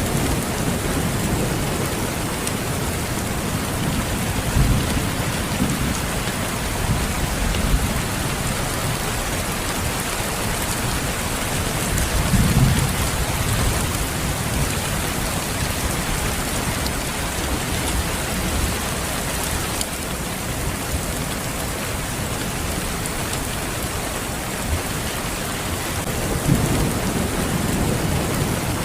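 Steady rain falling hard, with low rumbles of distant thunder swelling up three times: about five seconds in, around twelve seconds and near the end.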